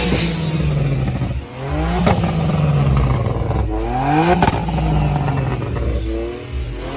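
A car engine revved repeatedly in short blips: the note climbs and drops back about three times, with a sharp crack near the peak of several of the revs.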